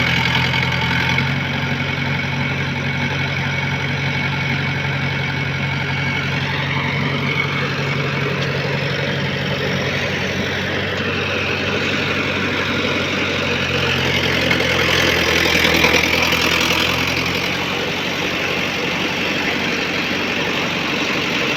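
Diesel engine of a JCB 3DX backhoe loader running steadily, with a brief rise in pitch and level about three-quarters of the way through.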